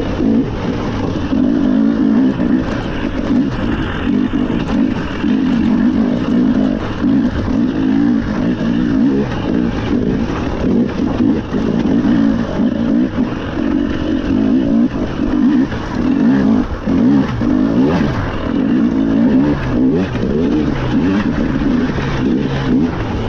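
Rally car engine running continuously under load, with tyre and road noise.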